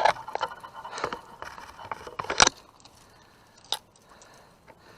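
Handling noise in a kayak while a caught fish is brought aboard: scattered clicks, rattles and scraping, with a sharp knock about two and a half seconds in and another near four seconds.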